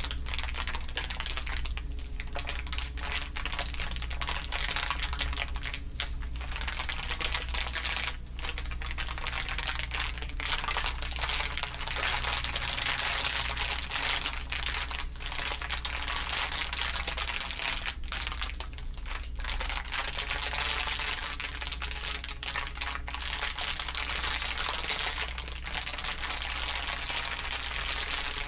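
Dense, continuous crinkling from several layered crinkle recordings, a busy crackle of many tiny clicks, treated with audio effects, with a steady low hum underneath.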